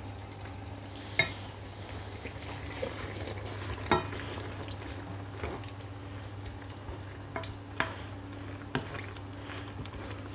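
A spoon stirring a simmering chicken, leek and ham sauce in a frying pan: soft scraping with several sharp clinks of the spoon against the pan, the loudest about 1 s and 4 s in, and again near 8 s. A steady low hum runs underneath.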